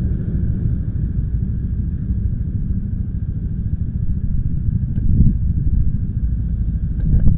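Motorcycle running while being ridden, a steady low sound that swells briefly about five seconds in and again near the end.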